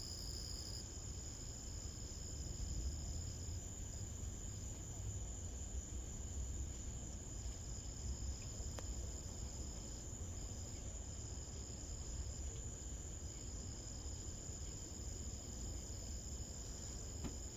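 Crickets trilling steadily in a night chorus, one high trill unbroken and a slightly lower one dropping out and coming back several times, over a constant low rumble.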